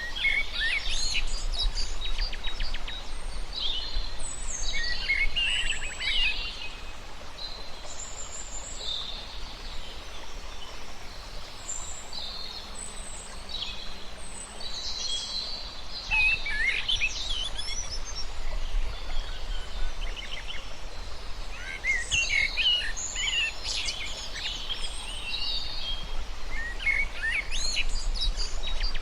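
Several songbirds chirping and singing, with a lull in the middle, over a steady low rumble of background noise.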